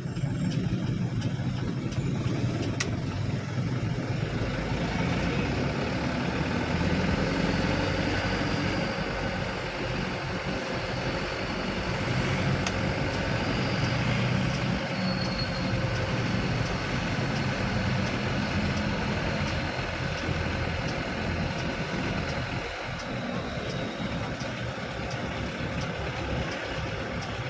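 Truck engine running steadily, a continuous low hum with no marked revving or pauses.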